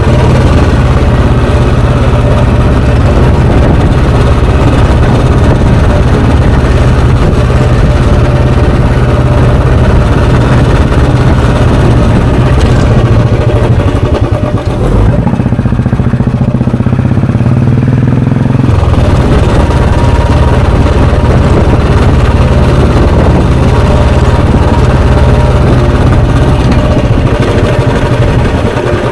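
Royal Enfield Bullet Standard 350's single-cylinder four-stroke engine and exhaust running while riding. About halfway through, the note changes and goes duller for a few seconds, then returns to its earlier sound.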